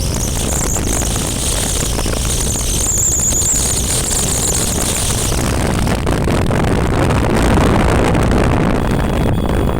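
Motorcycle running on the move, a loud steady mix of engine and rushing wind noise heaviest in the low end.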